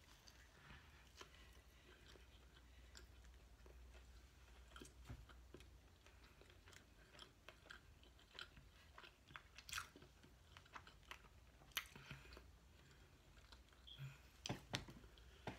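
Faint close chewing of a chicken breakfast sandwich: soft, irregular wet mouth clicks and smacks, a little louder near the end.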